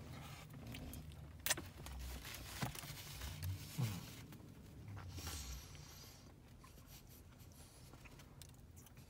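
A person chewing a juicy bite of cheesesteak sandwich, with faint wet mouth clicks and smacks, a sharper click about a second and a half in, and a brief low hum near four seconds. It grows quieter after about six seconds.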